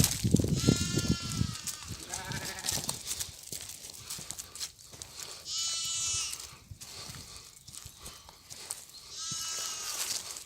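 Xalda sheep bleating four times, quavering calls, over steady crackling and rustling of olive prunings as the flock eats the leaves.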